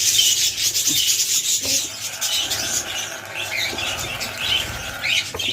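Budgies in an aviary colony chirping and chattering, with a dense rasping hiss over them, strongest in the first couple of seconds.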